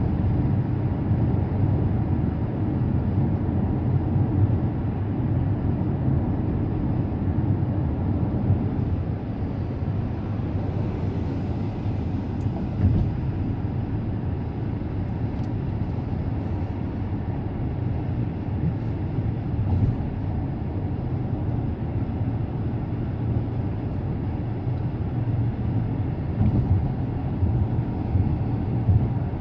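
Steady low rumble of a car driving at speed: tyre and road noise with the engine's hum, with no sudden changes.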